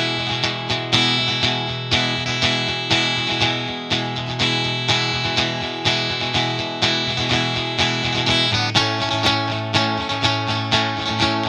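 Instrumental break of a rock trio: guitar playing over bass and drums with a steady beat, the chord changing about three-quarters of the way through.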